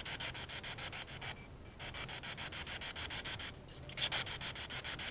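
Spirit box sweeping through radio stations: a fast, even chopping of static, several pulses a second, that drops out briefly twice.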